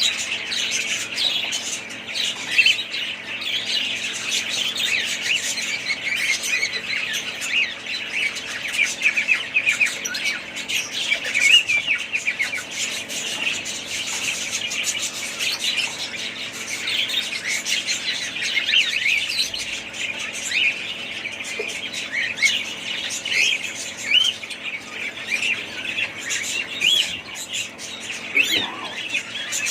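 A flock of budgerigars chattering, with many short chirps, warbles and squawks overlapping without a break.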